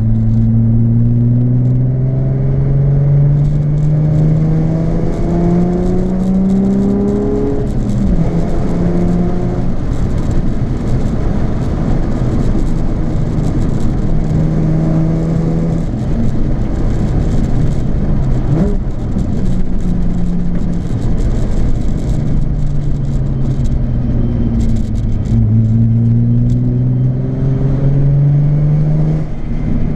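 Nissan 350Z's 3.5-litre V6 running through a Japspeed aftermarket exhaust while driving. The engine note climbs under acceleration, drops back about eight seconds in as at a gear change, holds fairly steady through the middle, then climbs again near the end.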